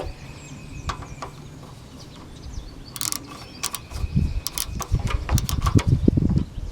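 Metal clicks and clatter of hand tools working on a riding mower's throttle cable mount: a few separate clicks, then a busy run of quick clicks and knocks in the second half.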